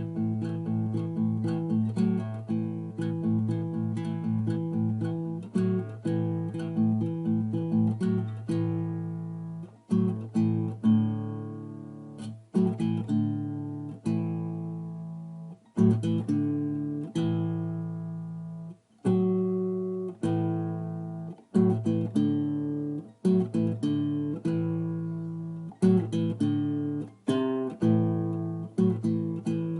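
Solo acoustic guitar played by hand, picked notes and strummed chords that each ring and fade, with a few brief breaks between phrases.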